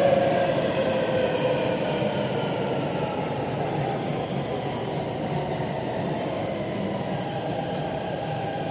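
Metro train running on the rails with a steady rumble, its motor whine falling in pitch over the first few seconds as the train slows.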